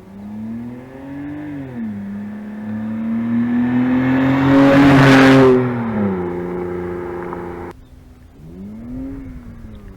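BMW Z4 with its muffler and resonator deleted, driven past under acceleration: the exhaust note climbs and drops with gear changes, loudest as the car passes about five seconds in. After a sudden cut, the revs climb and drop once more.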